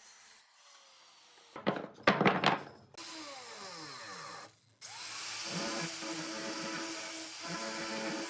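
Woodworking power tool: loud rattling bursts about two seconds in, then its motor winding down with falling pitch, and about five seconds in a motor starts again and runs at a steady hum.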